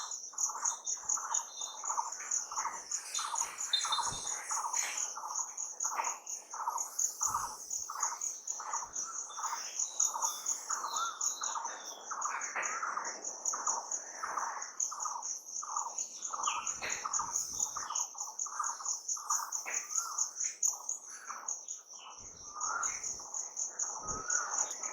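Birds calling with many short chirps repeated two or three times a second, over a steady, fast-pulsing high-pitched insect trill.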